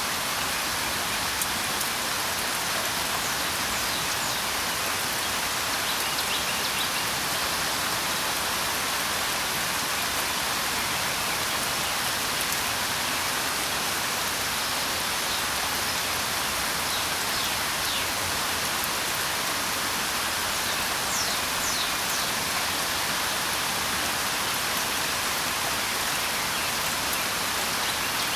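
Steady rain falling, a dense even hiss, with a few faint short bird chirps now and then.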